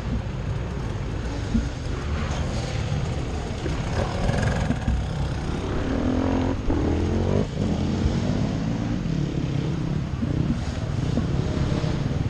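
Enduro dirt bike engine running under load and being revved, with a quick rise and fall in pitch about halfway through.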